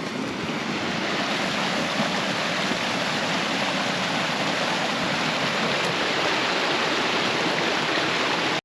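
A seasonal spring creek running high with meltwater: a steady, full rush of water.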